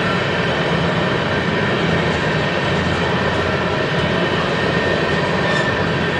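Freight train rolling past: a steady, unbroken rumble of wheels on rails.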